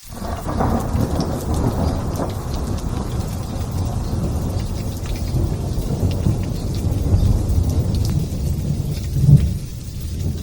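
Thunder rumbling on and on over steady light rain. It comes in suddenly at the start, gives a louder crack about nine seconds in, then eases.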